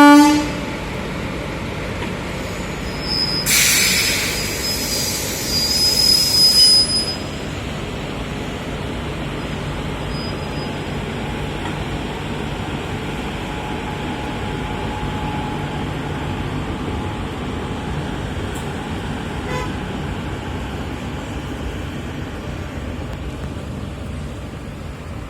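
Train horn blast cutting off about half a second in. A loud hiss with a high thin tone follows for about three seconds, then a steady low rumble of the train running.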